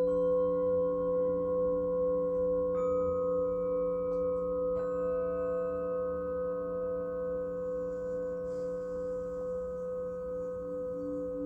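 Singing bowls ringing together in long, steady overlapping tones, with fresh strikes a few seconds in adding higher notes to the ring.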